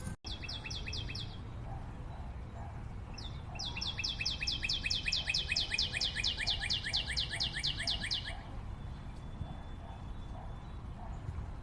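A forest bird singing fast runs of repeated high, downward-slurred notes, about six a second. A short run comes just after the start and a longer run of about five seconds comes in the middle, over a steady low background rumble.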